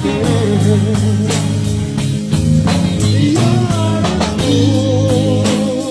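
Live band playing a slow song, with a singer over electric guitar and drum kit. The singer holds one long note near the end.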